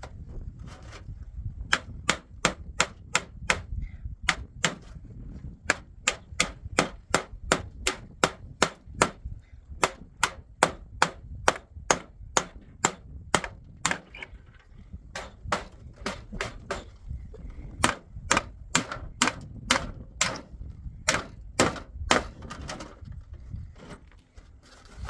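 Hammer blows on wood in quick succession, about two to three strikes a second, with a couple of short pauses: boards and nails being hammered during a door repair.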